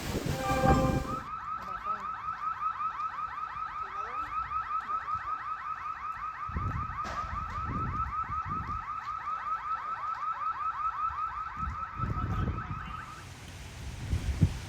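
Car alarm sounding: a few quick tones stepping up in pitch, then a fast, even chirp repeating about five times a second, which stops shortly before the end. Low gusts of wind on the microphone come and go underneath.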